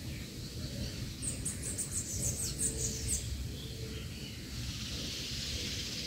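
A small bird chirping a quick run of short, high notes from about one to three seconds in, over steady outdoor background noise with a low rumble. A high hiss comes in during the last second and a half.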